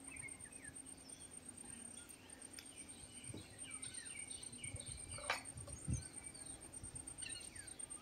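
Small birds chirping with many short, falling chirps over a steady high-pitched whine. A sharp knock comes about five seconds in and a dull thump just after it, the loudest sounds here.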